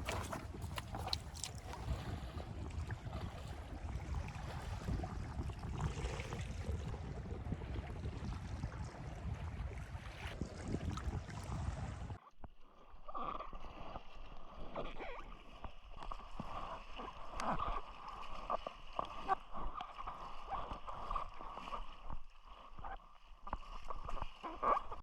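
Water sloshing and wind on the microphone around a sit-on-top kayak on the sea. About halfway through, the sound cuts abruptly to a quieter, muffled hum with many small clicks and knocks.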